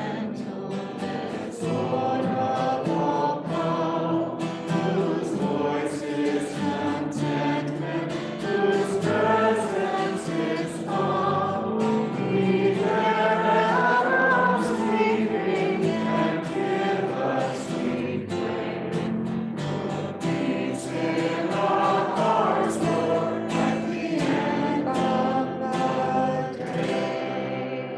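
A group of voices singing a hymn together, the last note fading out near the end.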